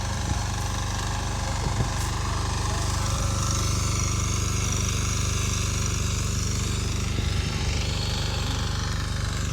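Two-wheel walking tractor's engine running steadily under load, driving a rear tine tiller.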